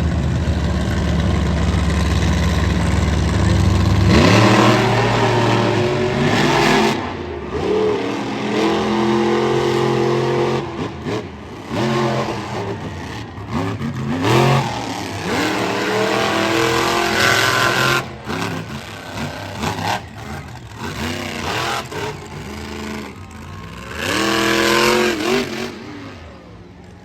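Monster truck engine running low and steady, then from about four seconds in revving hard over and over, its pitch climbing and dropping with each blip of the throttle, until it dies down near the end.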